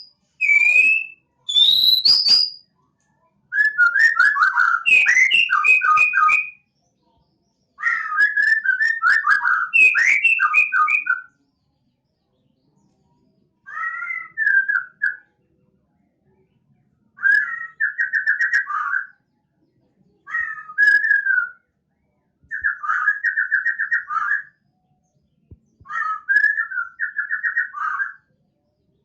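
Songbird singing in short phrases of rapid whistled notes and trills, separated by pauses. The phrases come closer together in the first few seconds and are more spaced out later.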